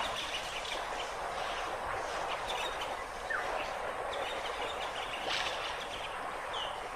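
Outdoor ambience: a steady hiss with a few faint, short bird chirps.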